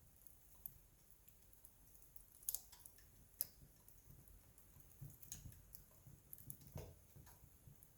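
Wood campfire burning quietly, with scattered sharp crackles and pops from the burning wood, a few louder ones about two and a half, three and a half and nearly seven seconds in.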